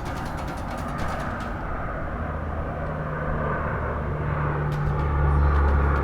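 Large military aircraft flying past: a low engine drone with a steady hum that comes in a couple of seconds in and grows louder toward the end.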